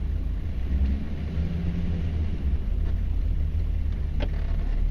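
The 6.5-litre V8 turbo diesel of a 1994 Chevy Silverado K1500 running as the truck drives, a steady low rumble. One sharp click about four seconds in.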